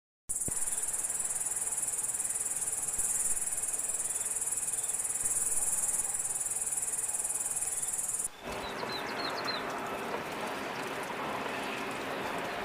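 Steady high-pitched insect chorus, cricket-like, for about eight seconds, then a switch to a different outdoor background with a few brief high chirps.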